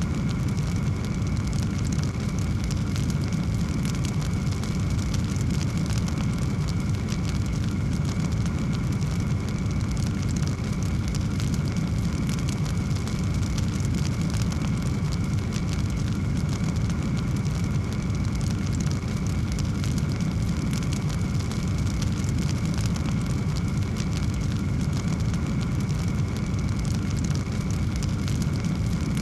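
Fireplace fire crackling steadily, with many small pops over a low, even rumble of flames.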